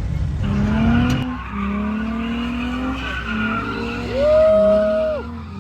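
A car engine revving in long rising pulls while its tires squeal; about four seconds in comes one loud, drawn-out tire squeal lasting about a second.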